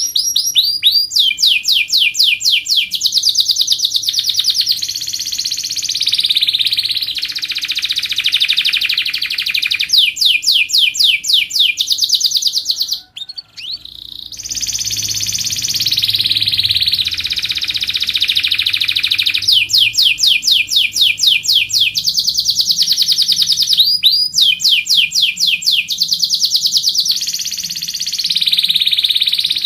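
Domestic canary singing a long, continuous song of rapid repeated-note trills and rolls, each phrase lasting a few seconds before switching to another, with a short break about halfway through.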